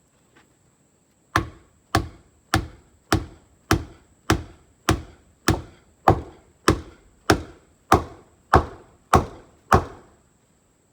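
Fifteen sharp, evenly spaced strikes, about one every 0.6 seconds, each with a short ringing tail, starting a little over a second in and stopping near the end.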